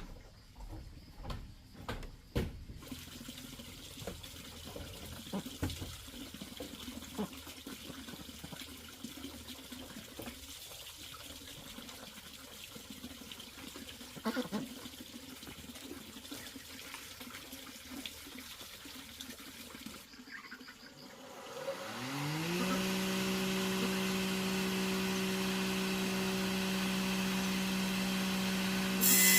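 A few light knocks and clicks, then a soft steady hiss. About three-quarters of the way through, an electric power tool's motor spins up with a rising whine and runs at steady speed, and right at the end it starts biting into wood.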